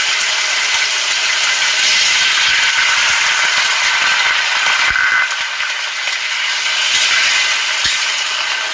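Diced bell peppers, onion and chili sizzling in hot oil in a stainless steel wok, a loud steady hiss. About four seconds in, water is poured into the pan and the sizzle eases slightly.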